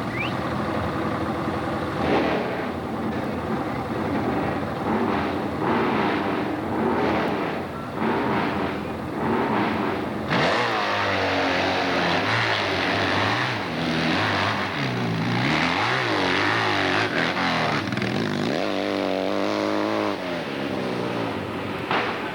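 Hill-climb motorcycle engine running hard. From about halfway through, it revs up and down in repeated rises and falls of pitch.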